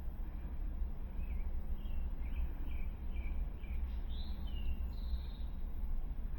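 A small bird chirping a quick series of short calls, about eight, followed by a couple of higher calls, over a steady low rumble.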